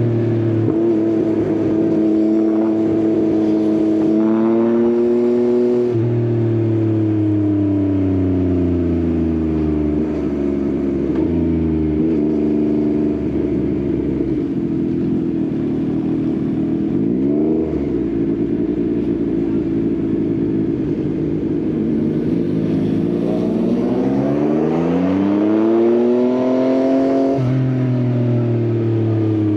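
Yamaha XSR900's inline-three engine through an Akrapovič exhaust, under way with the revs rising and falling. The engine rises and drops sharply about four seconds in, sinks slowly for several seconds, gives a quick blip about halfway, then climbs and drops again near the end as it shifts gear.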